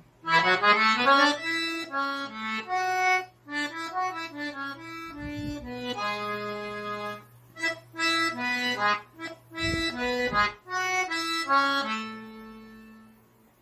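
Solo accordion (sanfona) playing a forró melody one note at a time, in short phrases with brief gaps between them. It ends on a long held note that fades away.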